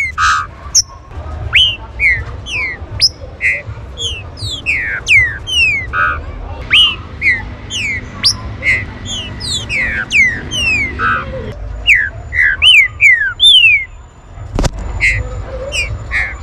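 Green-winged saltator (trinca-ferro) calling: a rapid run of sharp whistled notes, each sweeping steeply down in pitch, several a second. A single low thump comes near the end.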